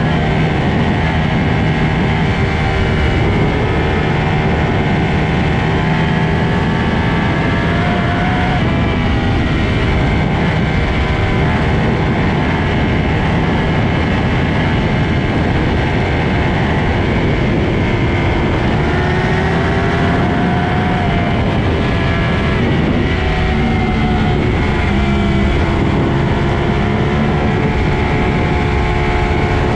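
Sport motorcycle engines running hard at high revs at highway speed, the engine note shifting up and down slightly a few times over a steady rush of noise.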